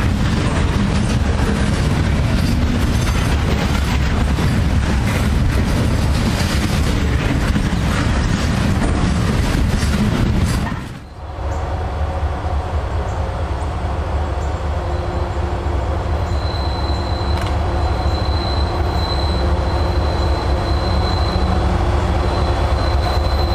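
Freight train of open-top hopper cars rolling past close by, a dense rumble of wheels on rail. It cuts off suddenly about halfway, giving way to a locomotive approaching from down the line: a steady low rumble with a thin, steady high whine coming in a few seconds later.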